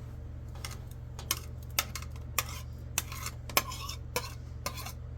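Metal utensils clinking and scraping against cookware and dishes, a sharp clink about every half second.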